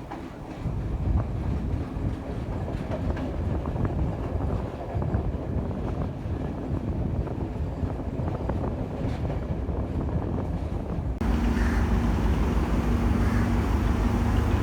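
Train running on the rails, a low rumble with clattering clicks. About eleven seconds in the sound cuts abruptly to a louder, steadier low rumble with a steady hum.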